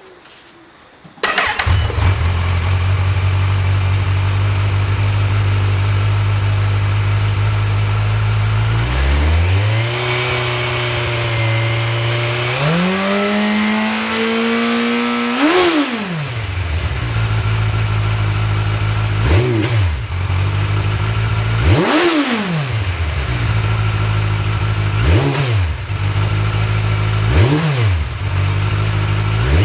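Kawasaki Ninja 1000 inline-four motorcycle engine starting about a second in and settling into a steady idle. After several seconds it is revved up and held higher in steps, peaking and falling back, then given about five short throttle blips through the exhaust.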